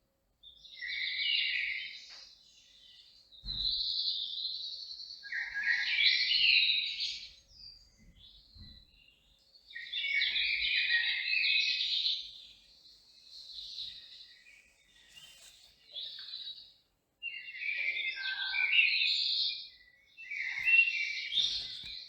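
A songbird singing in a series of rapid, warbling phrases, each lasting one to three seconds, with short pauses between them.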